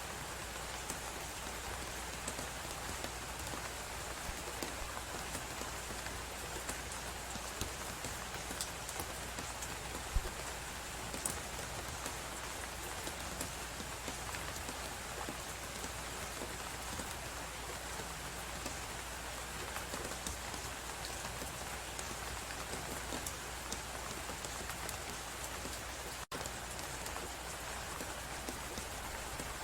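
Steady blizzard wind noise under a crackling wood fire, with many small crackles and one louder pop about ten seconds in. The sound cuts out for an instant about 26 seconds in.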